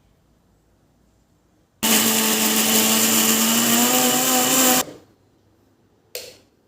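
Electric kitchen mixer grinder running in a short burst of about three seconds, its motor pitch climbing slightly, then switched off. A short knock follows about a second later.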